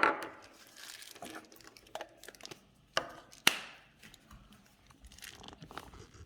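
Small plastic toy parts and wrapping being handled: a few sharp plastic clicks, the loudest right at the start and two more around three seconds in, among light crinkling and rustling.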